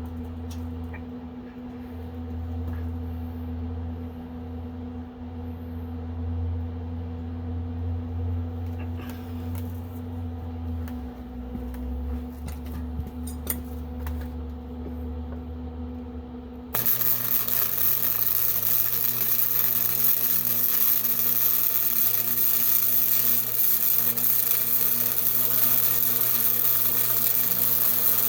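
Low steady hum with scattered light clicks and knocks, then about two-thirds of the way through a powered machine or tool starts abruptly and runs steadily with a loud, even hiss.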